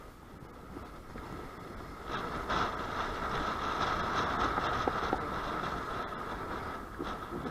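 A vehicle running with a steady high whine over a low rumble, growing louder about two seconds in.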